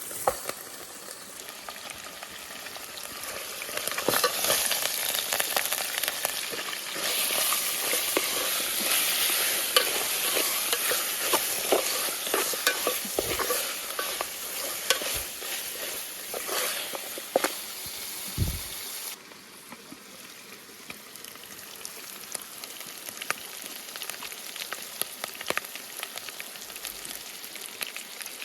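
Pork bones frying with curry paste in hot oil, a steady sizzle full of small crackles. It grows louder a few seconds in and drops back sharply about two-thirds of the way through.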